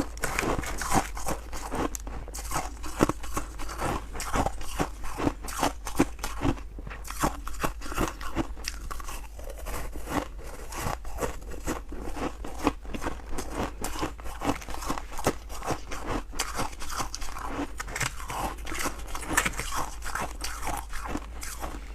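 Close-up crunching and chewing of freezer frost, many quick, irregular bites and crunches of soft, powdery ice in the mouth.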